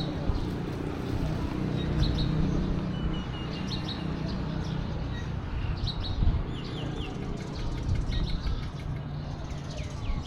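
Small birds chirping repeatedly over a steady low rumble from an idling diesel train engine.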